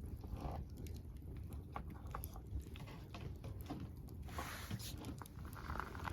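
Campfire crackling: burning wood snapping and popping in irregular sharp clicks over a steady low rumble, with a couple of short hissing spells in the second half.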